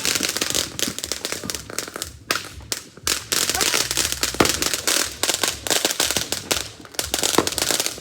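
Ground fountain ("shower") firework spraying and crackling: a dense run of sharp pops and crackles that thins out for a moment about two seconds in, then picks up again.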